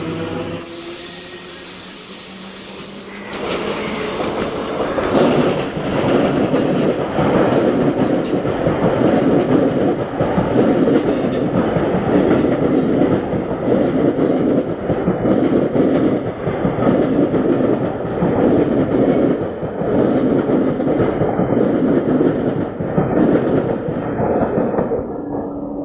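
Electric multiple-unit local train passing through at speed, its wheels clattering rapidly over the rail joints. The clatter builds about three seconds in, holds for some twenty seconds, and eases off near the end.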